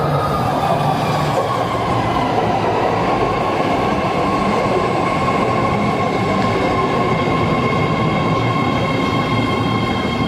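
BART train running through its slowing into the station: a steady rumble of wheels on rail under an electric whine that falls in pitch in the first couple of seconds, then holds steady with a higher whine joining about halfway.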